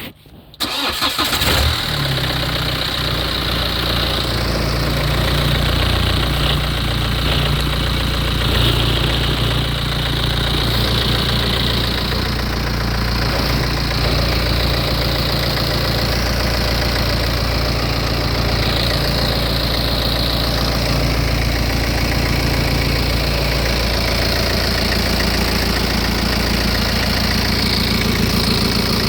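BMW N47 2.0-litre four-cylinder turbodiesel cranked on the starter and catching about a second in, then idling steadily. The mechanic diagnoses a failed turbo on this engine, with a leaking seal and a seized wastegate.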